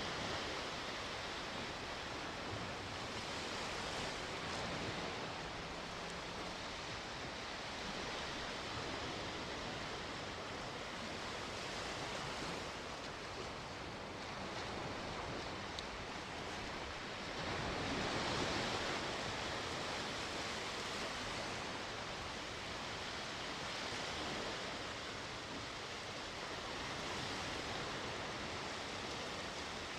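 Sea waves washing ashore, a steady rushing wash with gentle swells, one larger wave breaking about eighteen seconds in.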